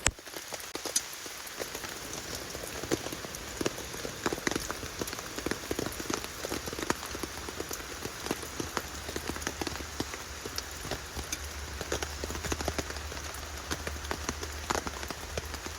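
Rain falling steadily, with many separate drops striking a surface as sharp, irregular ticks.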